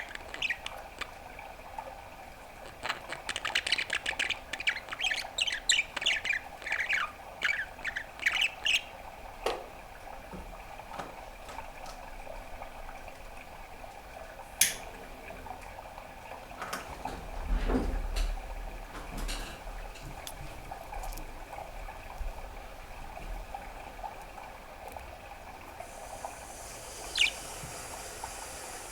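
Pet budgerigar chattering in a run of rapid chirps and warbles lasting about six seconds, then only scattered clicks and single chirps. A brief low rumble comes in about midway, and a steady hiss starts near the end.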